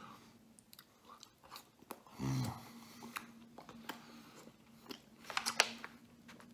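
A man chewing a mouthful of marinara-dipped garlic knot with wet smacking and clicking mouth sounds. There is a brief low hum about two seconds in, and the loudest cluster of smacks comes near the end.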